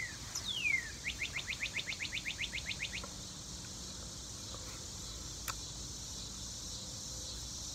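Northern cardinal singing: one downslurred whistle, then a fast run of about fifteen short rising notes that stops about three seconds in. A steady high insect chorus runs underneath.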